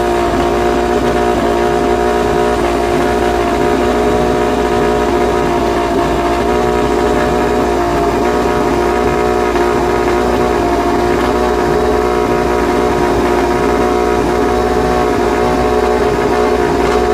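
A motorcycle engine running at steady revs, one constant note that neither rises nor falls.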